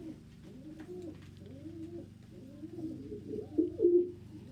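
Several domestic pigeons cooing at once, overlapping low rising-and-falling coos, loudest near the end.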